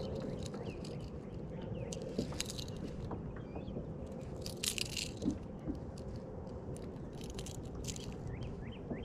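Penn Fierce IV 3000 spinning reel cranked on a retrieve, giving off irregular gritty crunching and clicking: the reel is damaged and grinds as it turns.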